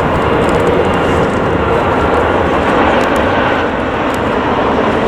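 Jet airliner engines close by, a loud, steady rush of engine noise.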